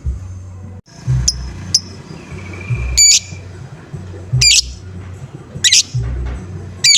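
Lovebird giving short, sharp, high-pitched 'ngoek' calls, repeated about every second and a half, over background music with a steady low beat.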